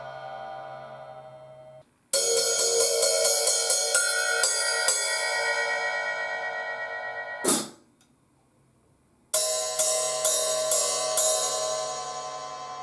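14-inch hi-hat cymbals played open: a run of quick strikes left ringing and slowly decaying, then one sharp hit after which the ring stops dead. After a short silence the hats are struck again about five times and left to ring.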